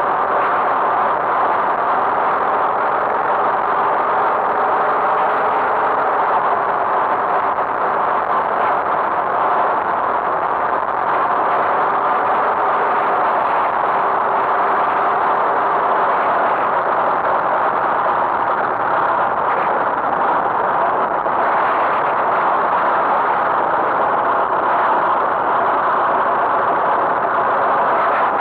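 Tractor engine running at a steady pace, a constant drone with no change in speed.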